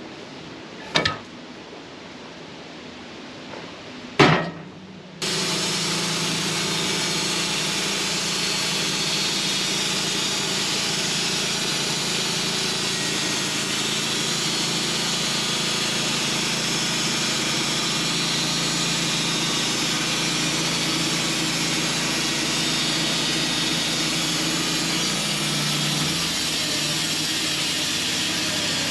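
Two sharp knocks of wood and metal, then the sawmill starts up suddenly and runs steadily, its engine and blade sawing through the hemlock log.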